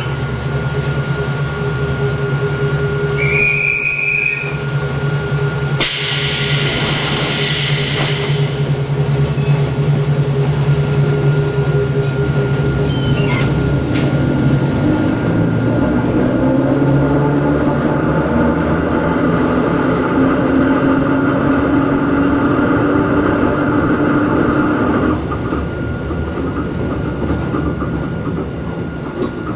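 Running sound of a Hakone Tozan Railway Moha 1 car with nose-suspended SE121-A traction motors: a steady motor and gear hum, with a brief high wheel squeal a few seconds in and a louder screech lasting about two seconds soon after. From about halfway through, the motor whine climbs in pitch, then drops back near the end.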